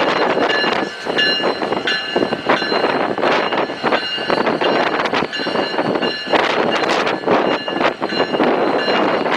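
A train rolling past close by, its wheels clattering over the rail joints, with a high metallic wheel squeal that comes and goes.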